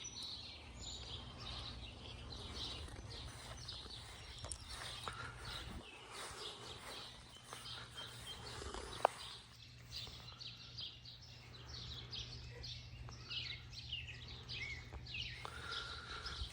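Many birds chirping in quick, short repeated calls over a steady low hum, with one sharp click about nine seconds in.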